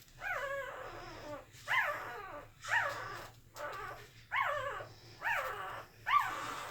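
Sleeping Corgi puppies whimpering and squeaking in their sleep: seven short high calls about once a second, each rising quickly and then sliding down.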